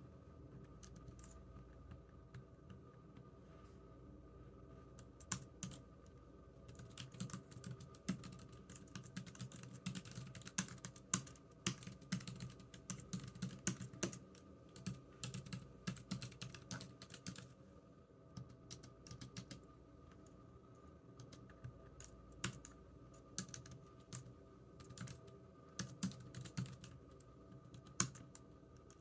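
Typing on a computer keyboard: bursts of key clicks, sparse at first, then a dense run of fast typing in the middle before slowing to scattered keystrokes, over a faint steady room hum.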